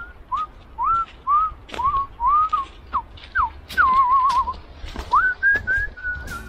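A person whistling a run of short notes, mostly quick upward slides, with a warbling trill partway through and a held, slightly wavering note near the end. Faint clicks and knocks sound alongside.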